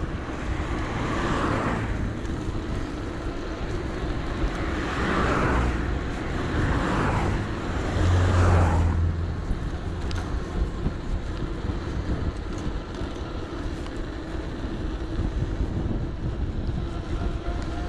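A few cars passing on the road in the first half, each a swelling then fading rush of tyres and engine, over a steady low rumble of wind and road noise.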